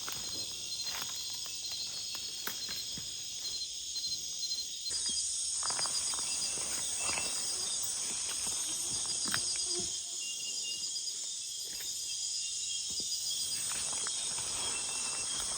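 Steady nighttime rainforest insect chorus: high-pitched trilling and rapidly pulsing calls, growing stronger about five seconds in. Scattered faint clicks and rustles run under it.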